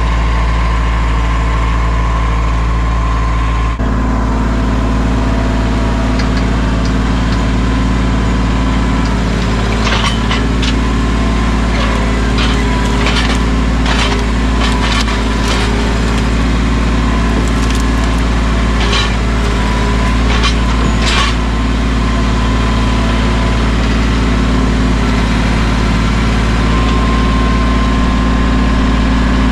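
Mahindra 1626 sub-compact tractor's diesel engine running steadily, picking up about four seconds in. Between about ten and twenty-one seconds in, a string of sharp cracks of wood snapping and splintering sounds over it.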